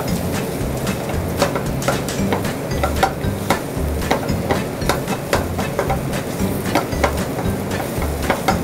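A wooden spatula stirring and scraping thick masala paste in an aluminium frying pan over a gas flame. It knocks and clatters against the pan irregularly, about two or three times a second.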